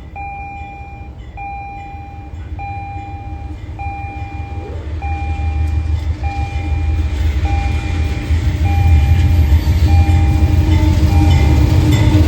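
Electronic grade-crossing warning bell dinging at an even pace, about one and a half strikes a second, as an approaching diesel freight locomotive's low engine rumble grows steadily louder.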